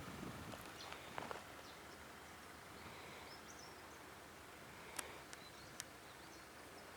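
Near silence: faint steady background hiss with a few soft clicks.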